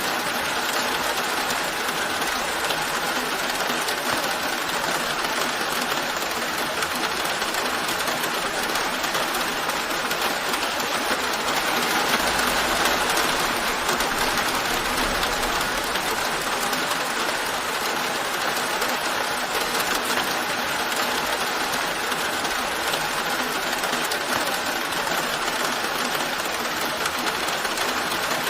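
Steady rain falling, an even hiss with faint patter of drops. It swells slightly, with a faint low rumble, a little before the middle.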